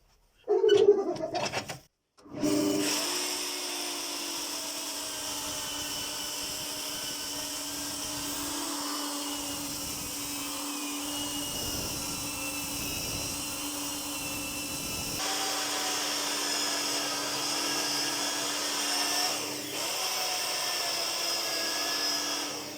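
A short loud scraping clatter, then an electric power tool starts about two seconds in and runs steadily with a constant hum, its tone shifting slightly about two-thirds of the way through.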